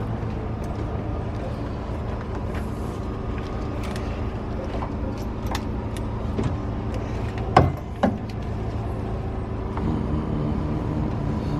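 A steady mechanical drone like a running motor or engine, with scattered metallic clinks of hand tools on engine parts. Two sharp knocks stand out about two-thirds of the way through.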